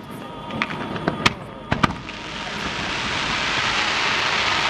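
Aerial fireworks bursting: several sharp bangs in the first two seconds, then a hiss that swells steadily louder toward the end.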